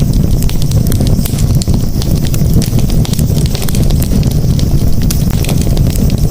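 Wood campfire crackling, with many small sharp pops scattered over a steady low rumble.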